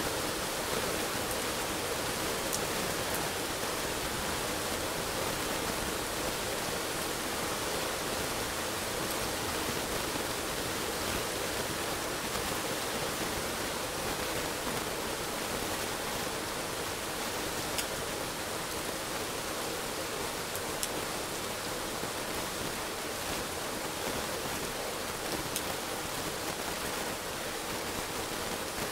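Heavy rain falling steadily as an even hiss, with a few sharp ticks scattered through it.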